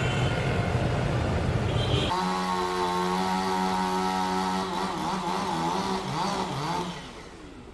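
Heavy vehicle engine noise: a low rumble, then after an abrupt cut a steady pitched engine drone whose pitch wavers up and down before it fades near the end.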